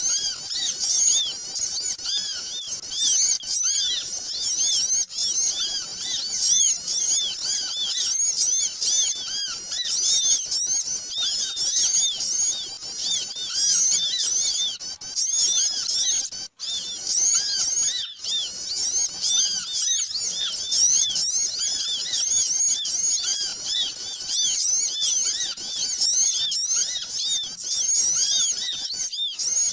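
A dense, noisy chorus of many small birds chirping, high-pitched short rising-and-falling calls overlapping without a break. It is a bird-lure ('pikat') recording made to draw small birds in.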